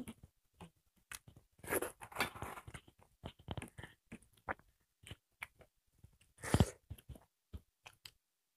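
Close-miked chewing and crunching of rice and dried buffalo meat (sukuti), eaten by hand, with an irregular run of small clicks and crackles. A louder crunch comes about six and a half seconds in.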